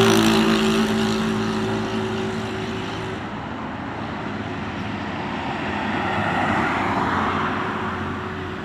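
Road vehicles passing: one vehicle's engine hum fades away over the first three seconds, then another vehicle comes up and passes with a swell of tyre and road noise about six to seven seconds in.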